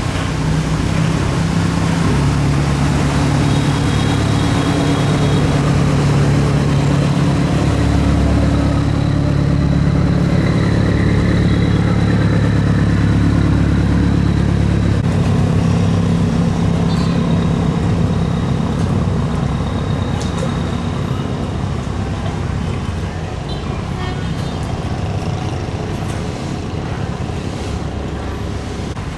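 A boat engine running steadily with a low hum, loudest through the first half and easing off a little past halfway.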